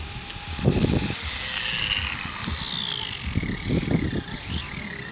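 High-pitched whine of a 1:24 scale RC short course truck's 10,000 kV brushless motor, sliding down and back up in pitch as the throttle and speed change. Two bursts of low rumbling, about a second in and again after three and a half seconds, are louder than the whine.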